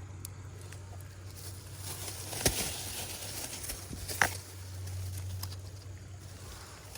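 Two sharp knocks about two seconds apart, over a steady low hum.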